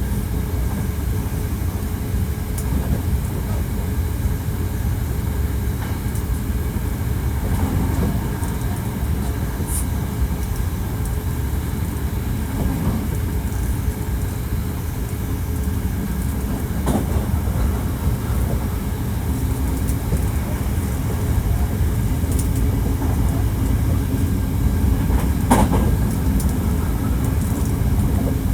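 Hankyu 1300 series electric train running at speed, heard from inside the car: a steady rumble of wheels on rail with a few sharp clacks, the loudest near the end.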